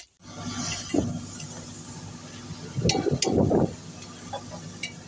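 Metal tools and engine parts clinking and knocking during work on a dismantled diesel generator engine, with a cluster of knocks about three seconds in, over a steady low hum.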